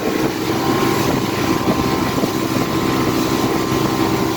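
Motorboat engine running steadily under way, with a constant drone.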